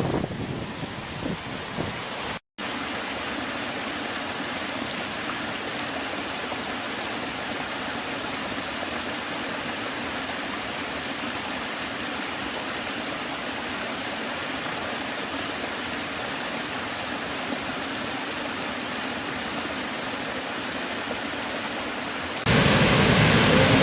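Waterfall: a steady rush of falling water. It cuts out briefly about two and a half seconds in, and near the end it changes to a louder, deeper rush.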